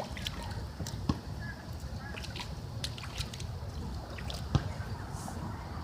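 A domestic goose splashing about in a shallow puddle: scattered small splashes and drips, with a couple of sharper splashes about a second in and again later, over a steady low rumble.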